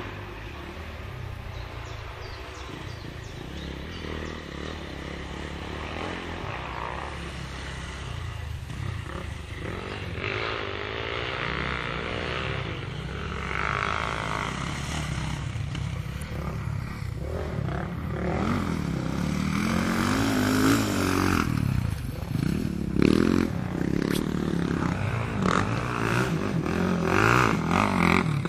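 Motocross bike engines revving on the track, pitch rising and falling as the riders open and close the throttle. The sound grows louder through the stretch, with the strongest revving in the second half.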